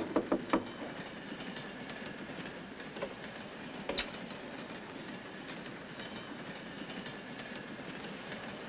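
A few quick knocks on a compartment door, then the steady rumble and clatter of a moving passenger train heard from inside the carriage, with a sharp click about four seconds in.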